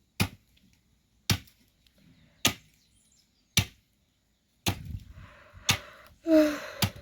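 Axe chopping firewood: seven sharp blows, about one a second. A short pitched sound comes in near the end.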